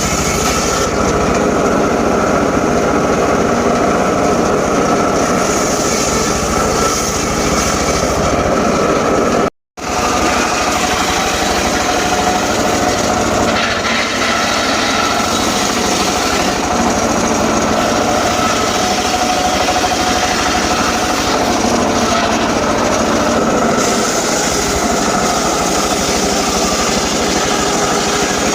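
Portable engine-driven circular sawmill running and cutting teak: a steady engine drone under the whine of the spinning blade. The sound cuts out for a moment just before ten seconds in, then carries on as before.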